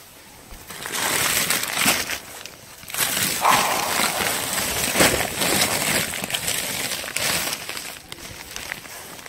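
A plastic bag of dog food rustling and crinkling as it is handled. There are two noisy spells, one starting about a second in and one about three seconds in, and it eases off near the end.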